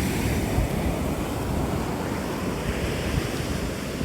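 Surf washing on a beach, with wind buffeting the microphone in gusty low rumbles.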